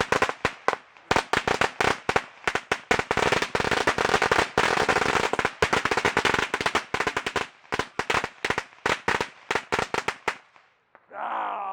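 A string of firecrackers going off: a rapid, irregular run of sharp bangs, several a second, for about ten seconds before it stops.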